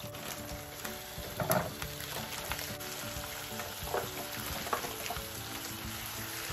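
Raw chicken pieces sizzling as they are dropped by hand into hot olive oil and onions in an electric skillet, with a few louder crackles as fresh handfuls land.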